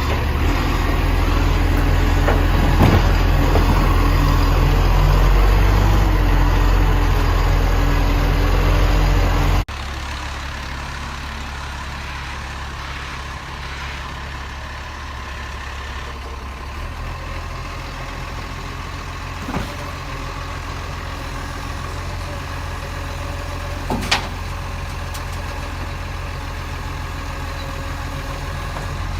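Garbage truck engines running with a low rumble. About ten seconds in the sound cuts off abruptly to a quieter engine, with two short sharp knocks later on.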